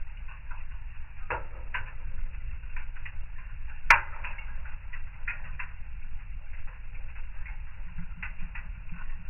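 Fireplace fire crackling: scattered small pops and snaps over a low steady rumble, with one sharp, louder pop about four seconds in.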